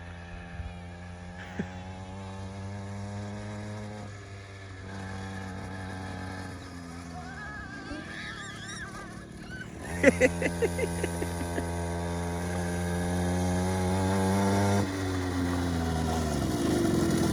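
Small carburetted petrol quad bike engine running, its pitch rising and falling with the throttle as it is ridden over rough ground. It is louder from about ten seconds in, with a few sharp knocks there, then drops in pitch as it slows near the end.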